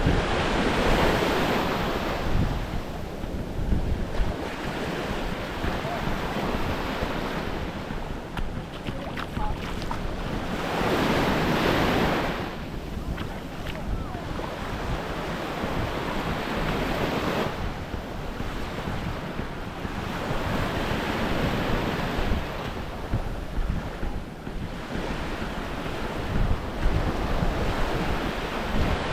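Small waves breaking and washing up the shore, swelling and fading every few seconds, the biggest about eleven seconds in. Wind buffets the microphone with a low, gusty rumble throughout.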